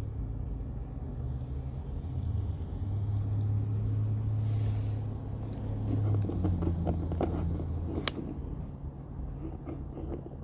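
School bus diesel engine running, a low steady rumble that swells for a few seconds in the middle. A few light clicks follow, with one sharp click about eight seconds in.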